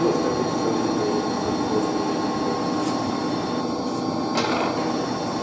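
Steady mechanical hum and hiss of the running heating circulation pump and pump-room machinery, with a brief metallic clink about four seconds in.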